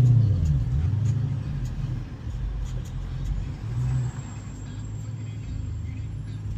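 2015 Dodge Challenger Hellcat's supercharged 6.2-litre V8 running, loudest at the start. Its pitch falls and rises over the first four seconds, then settles into a steady low drone.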